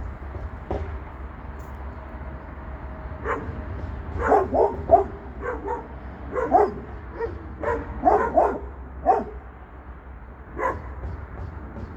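Dog barking and yipping in short runs of a few calls, with pauses between them. A steady low rumble runs underneath.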